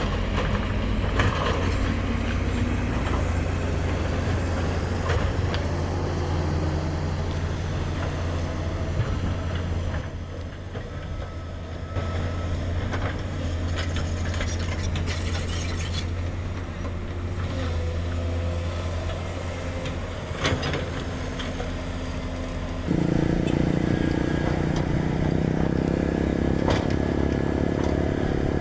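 Komatsu GD555 motor grader's diesel engine running steadily under work, with a single knock about two-thirds of the way through. Near the end the engine grows louder.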